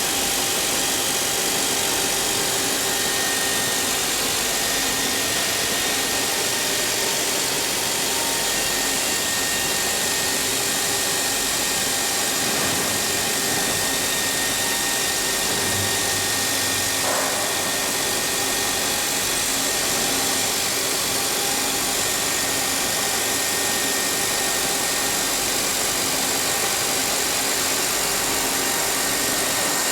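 Double-sided CNC milling machine running, a steady machine noise with a faint high whine held throughout and a single short tick about halfway through.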